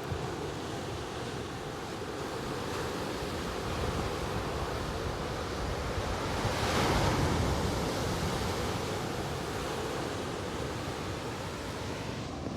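Ocean surf washing onto the beach: a steady rush, with one wave building to its loudest about seven seconds in and then easing off.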